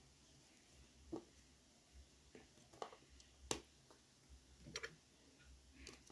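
Near silence with a faint low hum and a handful of short, scattered clicks and taps, the sharpest about three and a half seconds in.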